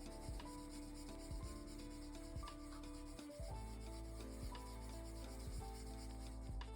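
Drawing strokes rubbing and scratching across paper in short, irregular passes, under soft background music of held notes.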